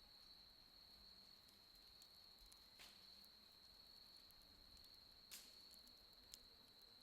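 Burning firewood giving off a few sharp cracks, two clear pops and a small one, over a steady high-pitched insect trill of autumn night crickets.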